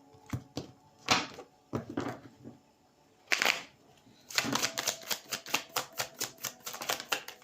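Tarot cards being shuffled by hand: scattered flicks and a swish, then a quick run of rapid clicking in the second half as the deck is riffled.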